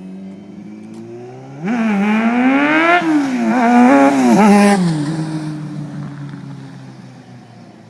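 Sport motorcycle engine accelerating hard past, the revs climbing and falling back several times, loudest after a few seconds, then fading as it moves away.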